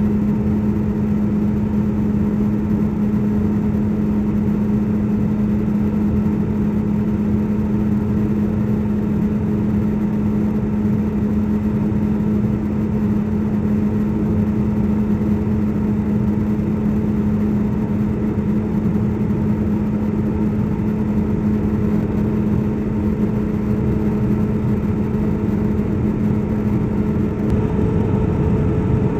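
Steady cabin noise of an airliner in flight: engine drone and rushing air with a constant low hum. Near the end the hum drops away and a higher tone takes over, as the engine power setting changes during descent.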